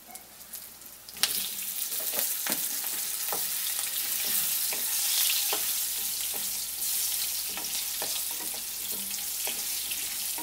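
Potato chunks sizzling in hot mustard oil in a kadai as they fry, stirred with a wooden spatula that taps against the pan now and then. The sizzle jumps up sharply about a second in and then holds steady.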